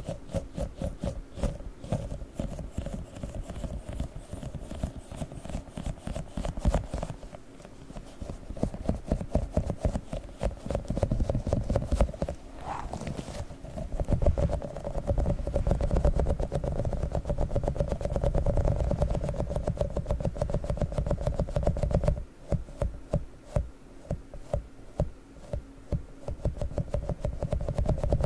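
Rapid, irregular sticky crackling and clicking from a tiny sticky octopus toy handled close to the microphone.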